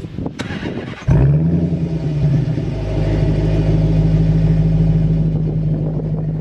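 Wind buffeting the microphone, then about a second in the exhaust of a 5.7-litre HEMI V8 through a Magnaflow stainless catback exhaust comes in suddenly. It climbs briefly in pitch and then holds a steady, even rumble at constant revs.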